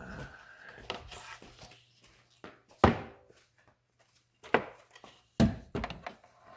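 Scattered sharp knocks and clunks of hard objects being handled, the loudest about three seconds in, over a faint steady electrical hum.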